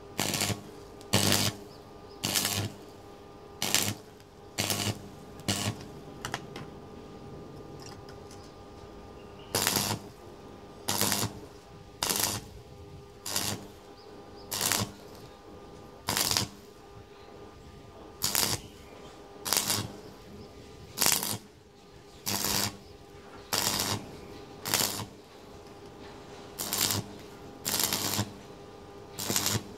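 Arc welder laying short tack welds on a steel exhaust pipe: crackling bursts of under half a second, about one a second in runs of five or six with pauses of a few seconds between, the welder's hum rising with each burst. A faint steady hum runs underneath.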